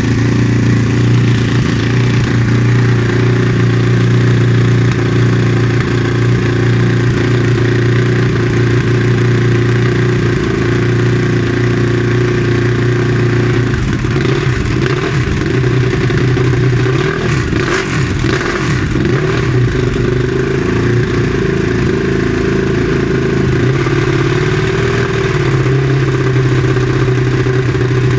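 Ducati 1299 Superleggera's L-twin engine idling steadily, then blipped and revved unevenly for several seconds about halfway through, with some sharp cracks, before settling back to idle.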